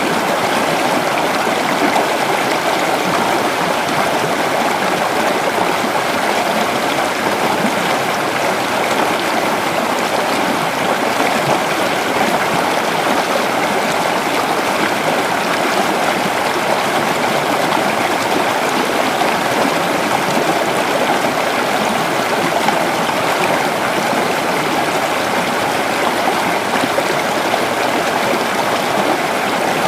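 Creek water flowing steadily over rocks: an even, unbroken rushing and babbling.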